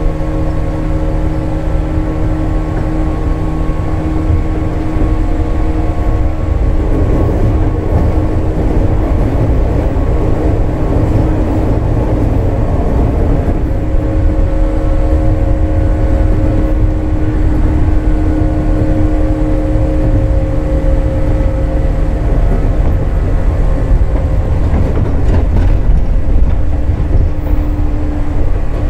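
Running sound of a JR 415 series electric multiple unit heard from inside the car: a continuous rumble of wheels on rail with steady traction-motor and gear hum. A rougher, noisier stretch comes about a third of the way in, and a few sharp clicks come near the end.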